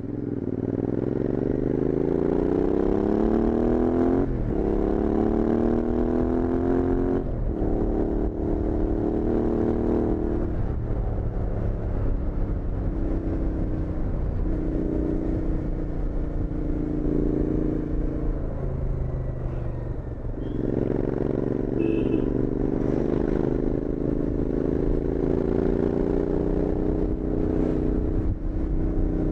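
Royal Enfield Interceptor 650's parallel-twin engine through Powerage Performance slip-on exhausts, running under way. The revs rise and drop sharply at upshifts about four and seven seconds in, then hold with short throttle lifts. The engine eases off just before twenty seconds and pulls again.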